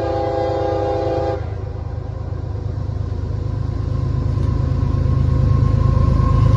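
Train horn sounding a several-note chord that cuts off about a second and a half in, over the low rumble of a diesel locomotive that grows steadily louder.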